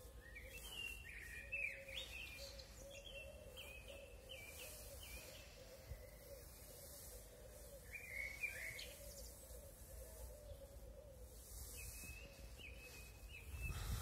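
Small songbirds chirping in short repeated phrases, with a faint steady hum underneath.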